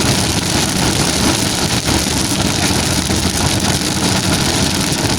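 A vehicle engine running steadily under heavy rain, with a constant hiss of rain over a low engine rumble.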